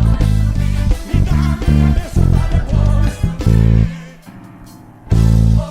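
Live worship-band music led by a loud electric bass playing a fast line of short, punchy low notes. The band stops abruptly about four seconds in, leaving one held low note, then comes back with a single loud accented hit near the end.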